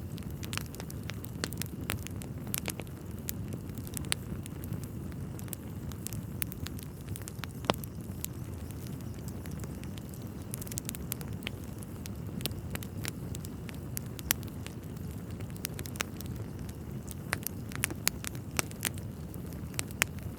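Wood fire burning in a fireplace: irregular sharp crackles and pops, a few louder snaps among them, over a steady low rushing noise.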